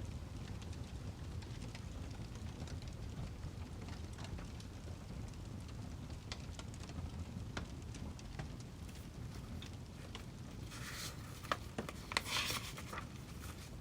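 Wood fire burning: a low steady rumble with scattered sharp crackles and pops, and a louder burst of crackling near the end.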